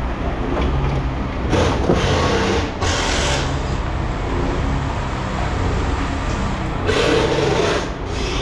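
A machine engine running steadily with a low rumble. Three short bursts of noise cut across it, near the start, a little later, and near the end.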